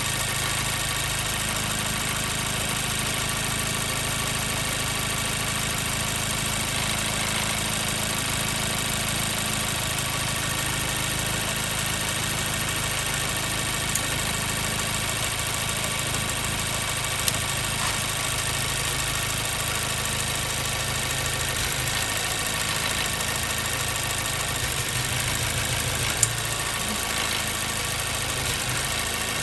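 2014 Mazda 3's 2.0-litre four-cylinder engine idling warm with a number 2 cylinder misfire, the miss audible at idle. A few short sharp clicks sound over the steady idle.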